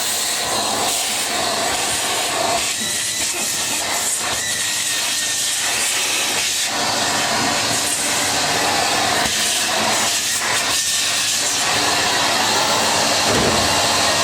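Vacuum cleaner running, its nozzle sucking fluff out of a tumble dryer's door trim: a steady, loud hiss whose tone shifts as the nozzle moves over the openings.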